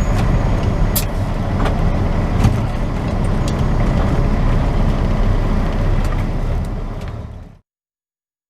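Semi truck driving: steady engine and road rumble, with a few short clicks. It fades out near the end into silence.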